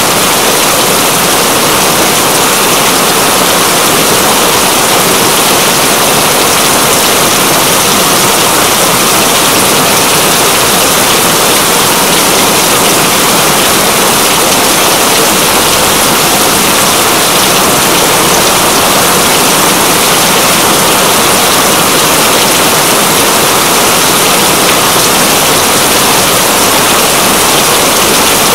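Rain falling steadily: a dense, even hiss of drops that holds constant throughout.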